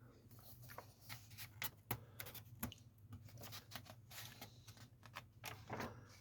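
Magazine pages being handled and turned: a scattered run of small paper crackles and clicks over a faint steady low hum.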